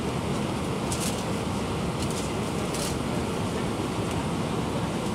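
Steady cabin roar inside an Airbus A319 airliner: engine and airflow noise heard from a window seat. A few brief rattles or clicks come about a second in, around two seconds and near three seconds.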